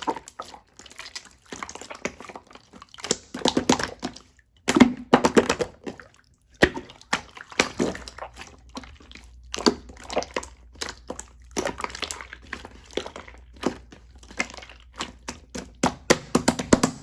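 Irregular clicks, taps and rustles of small objects being handled close to the microphone, with a faint low hum underneath.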